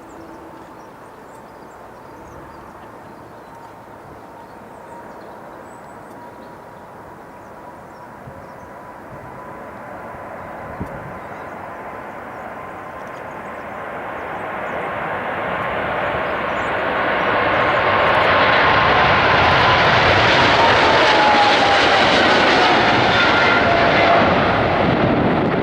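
Jet engines of a Boeing 777-300ER (GE90) at take-off power: a rushing roar that grows much louder as the aircraft comes closer. It carries a steady whine that falls in pitch as the jet passes. A single short crack sounds about eleven seconds in.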